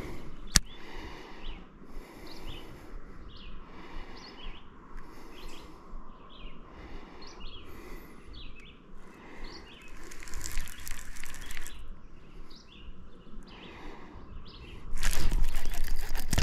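Songbirds chirping in short repeated calls over faint outdoor noise, with one sharp click about half a second in. Over the last second and a half comes a loud rush of handling noise as the rod is swept up on a strike.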